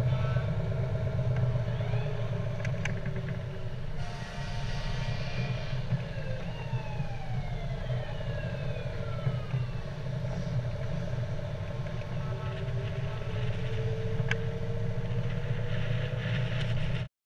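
Fire truck engines running steadily with a low rumble. A few falling tones sound about six to ten seconds in, and the sound cuts off suddenly near the end.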